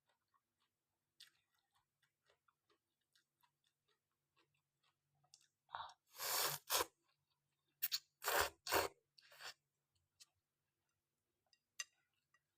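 A person eating khanom jeen rice noodles with fish-kidney curry: soft chewing and small mouth clicks, with two clusters of louder noisy bursts about six and eight seconds in.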